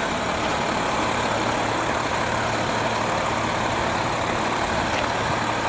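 A large vehicle engine idling steadily, with a low even hum under a broad steady rumble.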